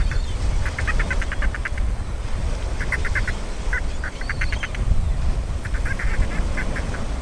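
Dolphin chatter: several short trains of rapid clicks, each lasting about half a second to a second, with a faint brief whistle about four seconds in, over a steady low rumble.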